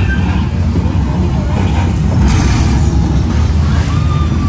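Studio tour tram running, with a steady low rumble.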